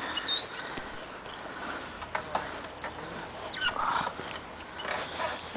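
A small bird chirping: short, high, thin chirps repeating irregularly, about one every half second to a second, some dipping slightly in pitch.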